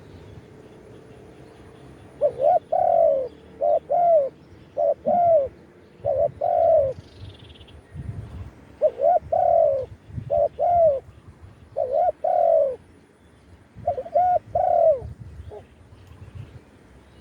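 Spotted dove cooing: a repeated phrase of short, rising-and-falling coos, delivered in two runs with a pause between them.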